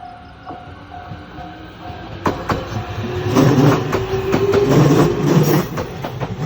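Level-crossing warning bell ringing in a steady repeating beat, about twice a second. A little over two seconds in, a train runs over the crossing, loud, its wheels clacking sharply over the rail joints.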